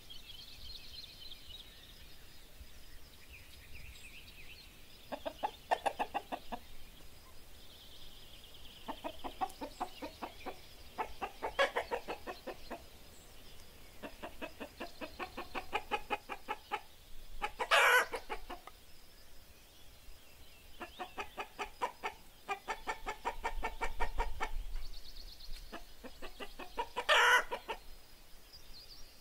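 Domestic hens clucking in repeated bouts of quick calls, with two short, loud squawks, one about two-thirds of the way in and one near the end. Faint songbird phrases sound higher up in the background.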